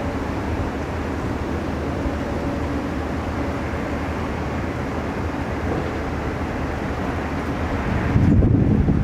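Steady jet airliner engine noise. About eight seconds in, gusty low wind buffeting on the microphone takes over.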